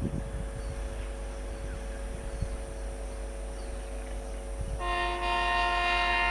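A rail track maintenance car's horn sounds one long blast starting near the end, over a steady low engine hum.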